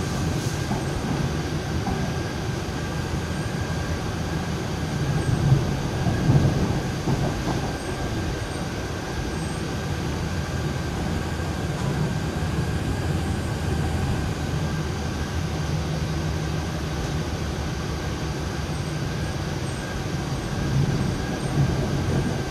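Onboard sound of an MTR East Rail line Hyundai Rotem electric train running at speed: a steady rumble of wheels on the track with a constant high hum, and a few louder knocks about five to six seconds in and again near the end.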